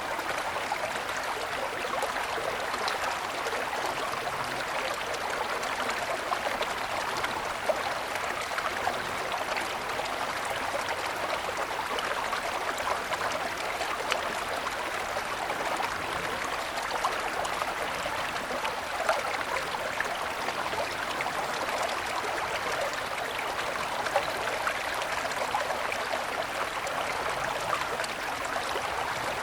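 Small mountain stream flowing and trickling over snow-covered stones, a steady running-water sound with light splashing.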